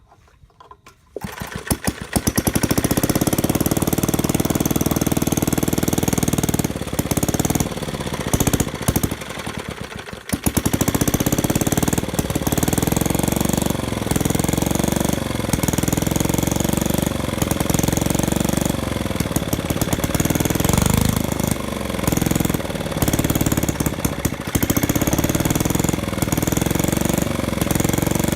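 Old Reo gasoline engine rope-started, catching about a second in and running with a fast, even firing beat. It falters and nearly dies between about 7 and 10 seconds in, then picks back up and runs steadily.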